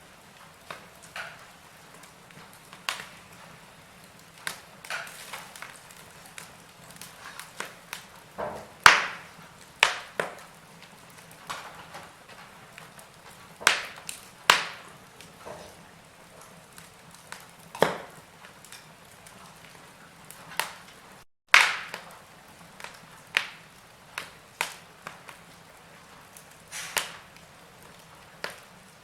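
Wood fire in a fireplace crackling: irregular sharp pops and snaps over a faint steady hiss. The loudest pops come about nine seconds in and a little past twenty-one seconds, the second just after a split-second dropout in the sound.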